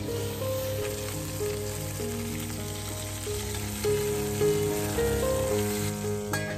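Stuffed chicken legs sizzling as they fry in hot oil in a stainless steel pan. Soft background music, a slow melody of held notes, plays over the sizzle.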